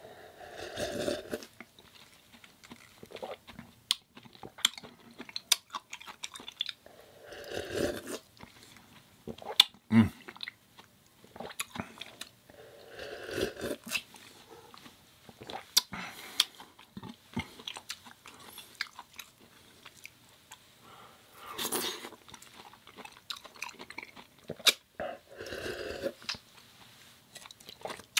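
Close-miked eating sounds: a person biting and chewing food, with many sharp crunchy clicks and a few short, wetter mouth sounds every several seconds.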